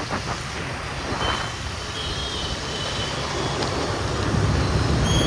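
Steady traffic and road noise heard from a moving motorbike, with a deeper rumble building toward the end and faint thin high-pitched tones from about a second in.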